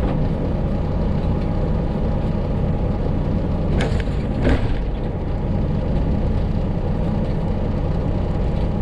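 Freightliner Classic XL semi truck's diesel engine running steadily while driving, with two short clicks about four seconds in.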